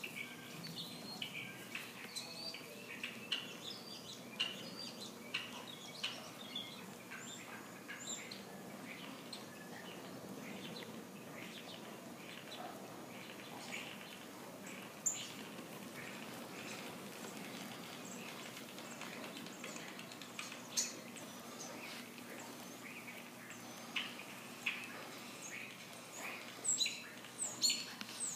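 Birds chirping: many short, high calls scattered throughout, coming thicker and louder near the end.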